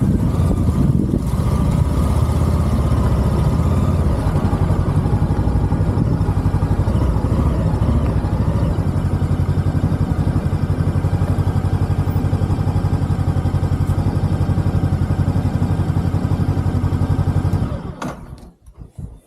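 Voge Valico 525 DSX motorcycle's parallel-twin engine running steadily at idle, then switched off about eighteen seconds in, with a few faint ticks after it cuts out.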